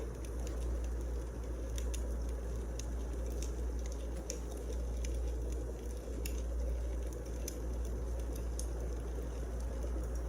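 Firewood burning: a steady low rush of flames with irregular sharp crackles and pops from the logs.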